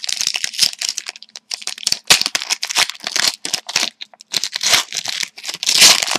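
Plastic wrapper of a hockey card pack being torn open and crinkled, an irregular run of loud crackling and tearing.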